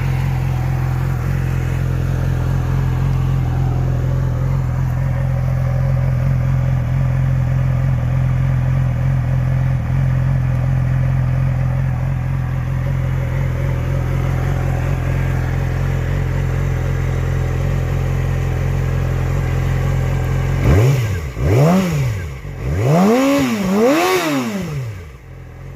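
2006 Yamaha YZF-R6's inline-four engine idling steadily through a TOCE dual-bore slip-on exhaust, then revved in four quick throttle blips near the end, the last two reaching higher revs.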